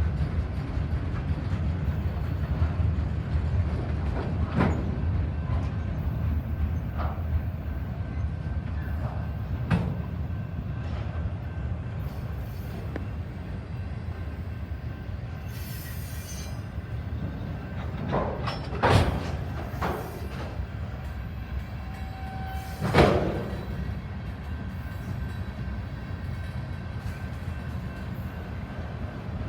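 A freight train's cars rolling past with a steady low rumble. Sharp clanks and bangs come every few seconds, the loudest two about two-thirds of the way through.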